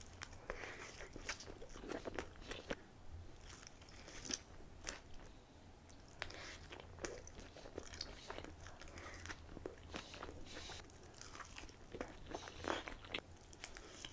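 Close-up chewing and biting of In-N-Out animal fries, fries topped with melted cheese, spread and grilled onions: faint, irregular mouth clicks and soft, wet chewing sounds.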